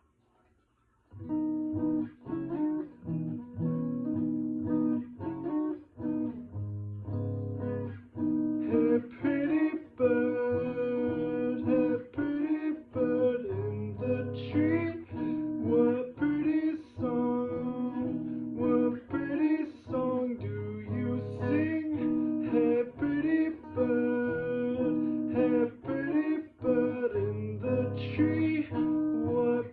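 Acoustic guitar playing a midwest emo piece, picked notes and chords ringing in a repeating pattern, starting about a second in.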